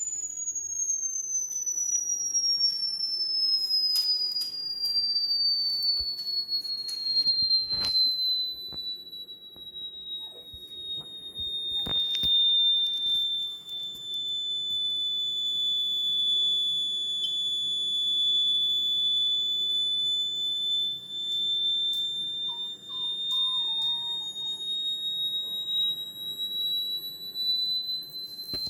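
A high-pitched pure electronic tone sounds without a break, its pitch sliding slowly downward over the first dozen seconds or so, holding steady, then rising slightly near the end. A couple of brief knocks are heard at about 8 and 12 seconds.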